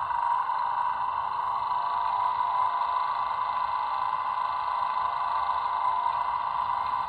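YouChoos Class 90 sound decoder playing a steady electric-locomotive hum at standstill through the model's small speaker: several held tones with no rhythm or change in pitch.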